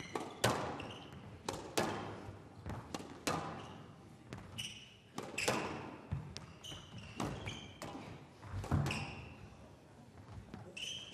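A squash rally: the ball struck by rackets and smacking the court walls about once a second, each hit a sharp crack with a short echo, with shoes squeaking on the court floor between shots.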